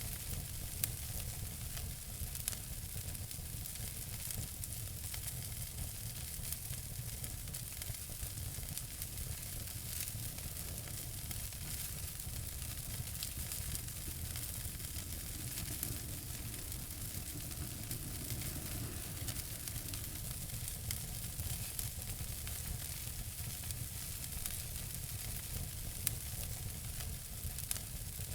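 Wood fire in a fireplace crackling: a steady hiss with a low rumble underneath, and frequent small pops with a few sharper cracks.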